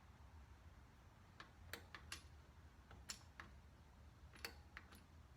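Faint, irregular light clicks of small metal parts being handled: a seat knob being threaded onto its stud and its retaining pin being fitted.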